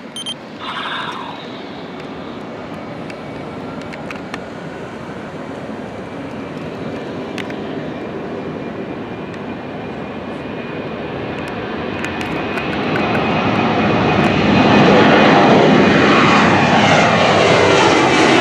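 Boeing 737 jet engines at takeoff power, growing steadily louder as the airliner rolls down the runway and climbs past, loudest over the last few seconds. Near the end its tones fall in pitch as it goes by.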